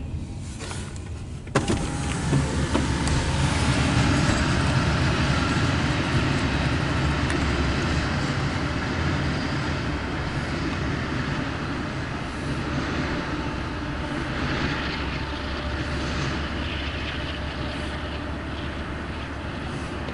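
CSX intermodal freight train rolling past, a steady rumble and clatter of wheels on the rails that gets suddenly louder about a second and a half in.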